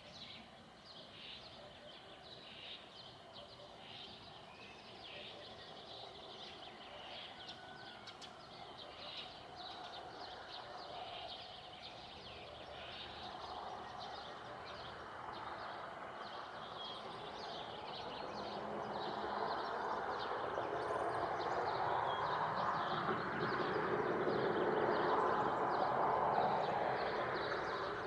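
Birds chirping in many quick, high notes. From about halfway, a broad rushing noise from a distant passing vehicle swells steadily and is loudest near the end.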